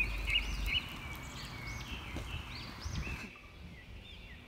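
Birds chirping: many short, repeated arching chirps, over a low rumble that drops away about three seconds in.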